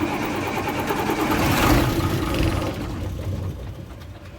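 Diesel engine of a 2001 Ashok Leyland bus turning over and firing on a cold start after five years standing. It swells to its loudest about a second and a half in, then fades away near the end.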